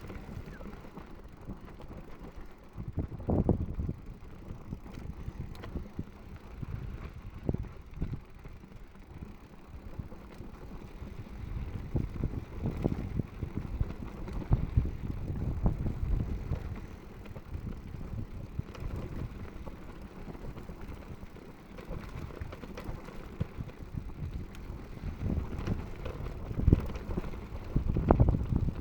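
Mountain bike rattling and rumbling over a rough trail on a descent, with irregular thumps as it hits bumps and rocks, the loudest a few seconds in and near the end.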